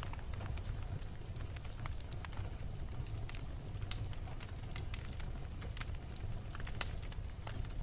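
Wood fire burning in a fireplace: frequent sharp crackles and pops from the logs, irregular in timing, over a low steady rumble of the flames.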